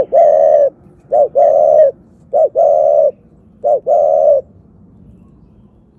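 Bird cooing in four two-note calls, each a short note followed by a longer held one, about every 1.2 seconds, then stopping after about four and a half seconds.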